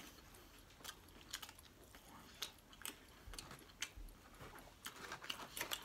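Quiet chewing of chicken nuggets: faint mouth clicks and smacks at irregular intervals.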